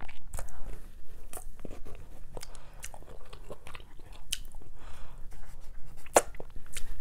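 Close-up chewing and biting as barbecue ribs are eaten off the bone by hand, with many short mouth clicks and smacks scattered through.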